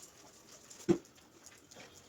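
A single sharp knock just under a second in, among faint scattered taps and scrapes, typical of hand tools being worked on tile during grouting.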